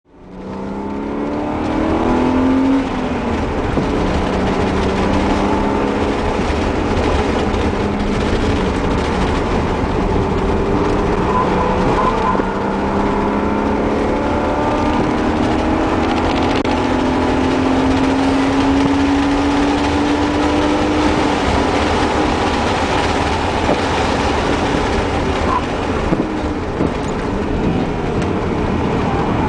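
BMW E36 M3's straight-six engine heard from inside the cabin, pulling hard with its revs climbing steadily, dropping back at shifts and climbing again, over a steady rush of road and wind noise.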